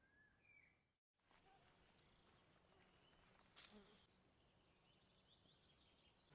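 Faint forest ambience with a few faint bird chirps, briefly cut to total silence about a second in, and a single soft click a little past the middle.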